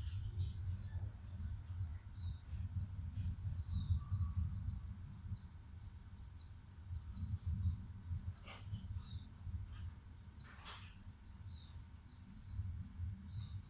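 A small bird chirping over and over, short high notes that dip in pitch, roughly two a second, over a low steady rumble. Two sharp clicks come a little past the middle.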